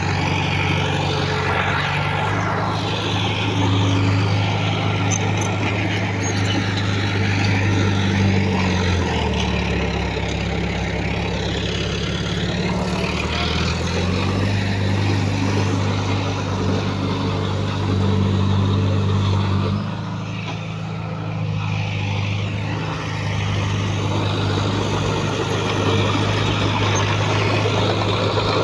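Heavy diesel engine of earthmoving machinery running steadily under varying load. Its pitch drops about nine seconds in, rises again around fourteen seconds, and drops once more near twenty seconds.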